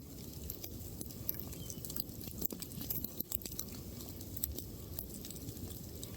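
Wood campfire burning, with irregular crackles and snaps over a low steady rumble of the flames.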